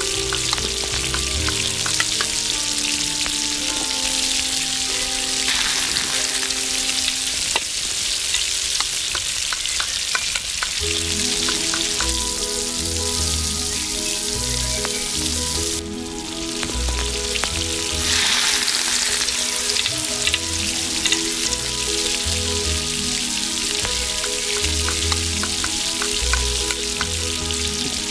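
Vegetables and aromatics sizzling in oil in a miniature stainless steel pot, with a small spoon clicking against the pot as they are stirred, over background music.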